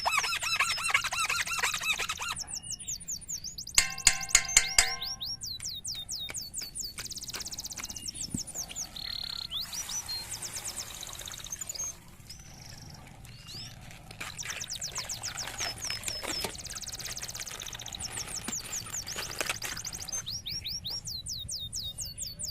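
Birds chirping throughout, with many quick repeated downward-sweeping calls and a louder, harsher call about four seconds in.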